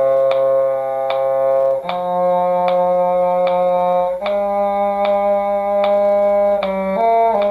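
Two-part duet music: an upper line over a lower cello line, both in long held notes that change pitch together every couple of seconds, with a steady metronome-like tick about every 0.8 s.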